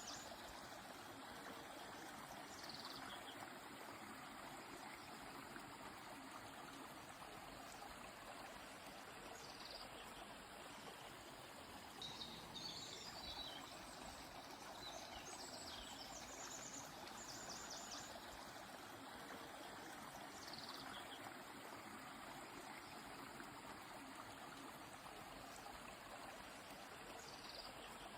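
Steady rush of a flowing river, with small birds calling over it: brief high falling notes every few seconds and a short run of quick chirps about halfway through.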